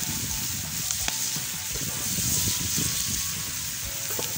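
Meat cubes and chopped onion sizzling steadily in hot oil in a metal pot over a wood fire. A metal spoon clinks against the pot a couple of times as they are stirred.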